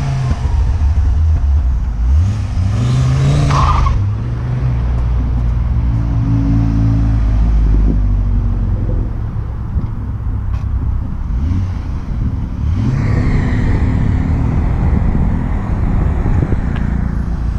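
Car engine running, revving up twice: once a couple of seconds in and again about two-thirds of the way through, with a steady low engine note between.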